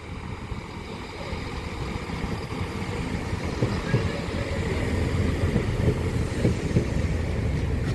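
Low rumble of a train running on the line, steadily building in loudness.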